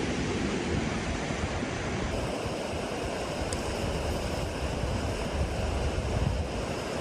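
Steady rushing wind, with uneven low rumbling from gusts buffeting the microphone.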